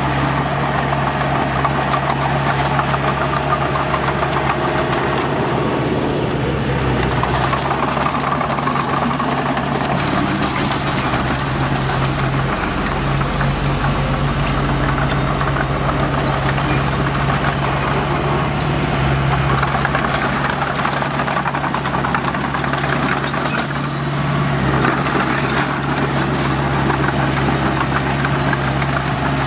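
Heavy diesel engine of earthmoving equipment running steadily throughout, its pitch and load shifting a little partway through.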